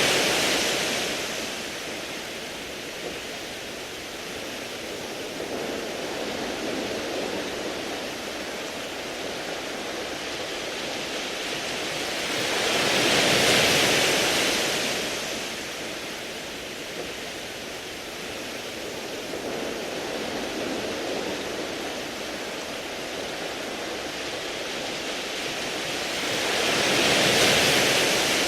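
Sea waves washing over a beach of round pebbles, a steady surf hiss that swells to a loud wash three times, about every 14 seconds: at the start, halfway through and near the end. Smaller surges come in between.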